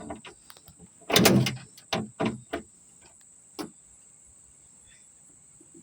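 Ratchet with an 8mm socket clicking as the trunk latch bolts are loosened: a loud run of rapid clicks about a second in, then a few single clicks.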